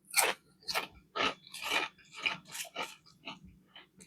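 Close-miked chewing of a homemade fish fillet sandwich: a run of short, crunchy bites and chews, about two a second, growing fainter near the end.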